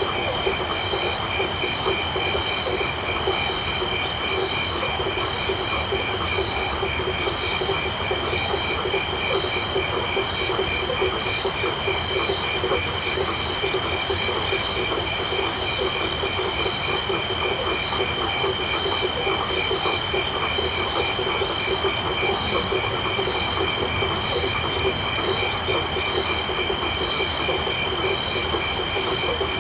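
Night chorus of frogs and crickets: a dense, rapid low trill of calling frogs with several steady, high-pitched insect tones pulsing over it, unbroken throughout.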